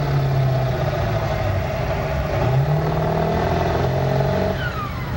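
Diesel pickup truck engine running hard under load while pulling a weight-transfer sled. Its pitch shifts and climbs, then falls away near the end as the revs drop.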